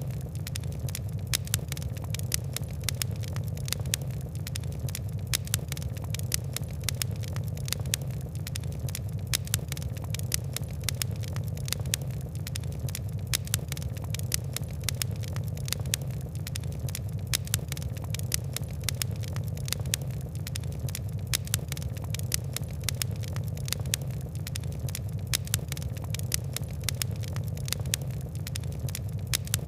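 Fire crackling steadily, with frequent irregular sharp pops and ticks over a low, even rumble of burning.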